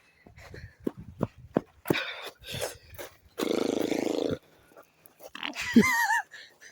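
Footsteps on a forest trail, then a person lets out a low, rough growl about a second long, a few seconds in, followed by a short wavering vocal cry near the end.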